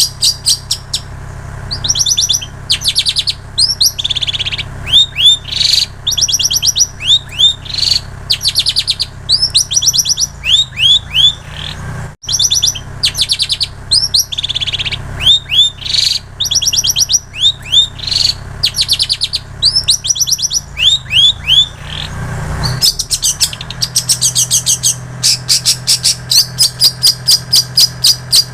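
Long-tailed shrike (cendet) singing a loud, fast mimicked song of rapid repeated high chips and short falling whistles, in phrases with brief pauses: the shrike's learned imitation of plain prinia and canary song. A steady low hum runs underneath.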